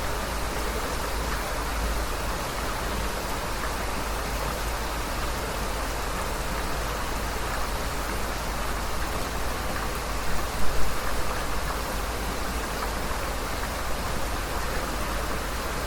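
Heavy rain falling in a steady, dense hiss, with a brief cluster of louder hits about ten seconds in.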